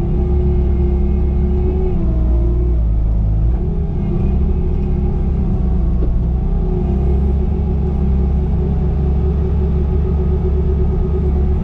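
Bobcat T595 compact track loader's diesel engine running steadily, with a mid-pitched whine that dips in pitch and comes back up several times.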